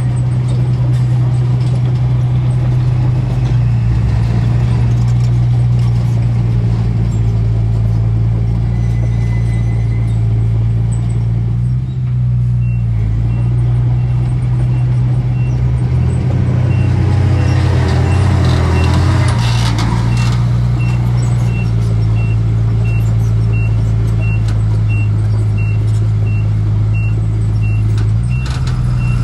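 Heavy diesel construction machinery running steadily, with its engine surging louder for a few seconds past the middle. A reversing alarm beeps steadily from a little before halfway to near the end.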